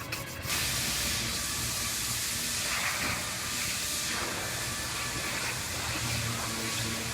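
A steady hiss of compressed air in a body shop, starting abruptly about half a second in and holding level.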